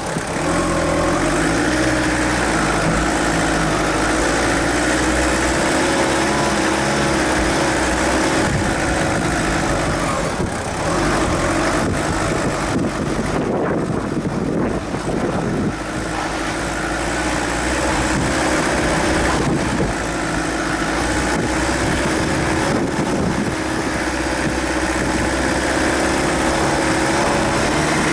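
Suzuki Grand Vitara 2.0 TD's turbodiesel engine running at low speed off-road, heard close from the bonnet, its pitch wavering with the throttle. For a few seconds around the middle the engine note becomes less steady and rougher as the car crawls over rocky ground.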